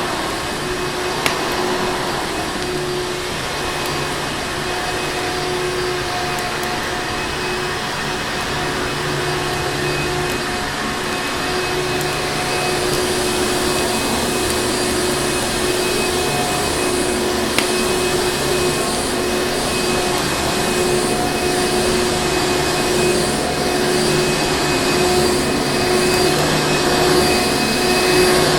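Electric vacuum cleaner running steadily, a constant rushing drone with a steady hum in it, and two brief clicks, one about a second in and one a little past halfway.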